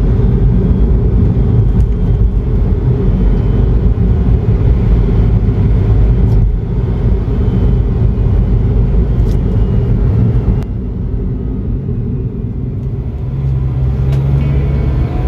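Toyota AZR65 Noah being driven, a steady low road and drivetrain rumble. It eases off and grows quieter about ten seconds in, then settles into a steadier low hum near the end.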